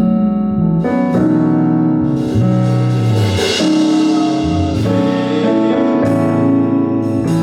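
Worship music on keyboard: slow, held chords changing about once a second, with a brighter shimmer partway through.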